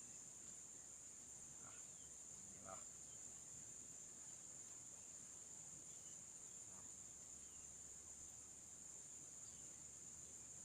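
Insects giving a faint, steady high-pitched drone, with two faint small knocks about two and three seconds in.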